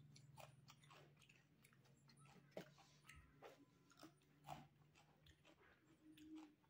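Quiet close-up chewing of a mouthful of rice and potato bhujiya eaten by hand, with soft mouth clicks at irregular intervals over a faint steady low hum.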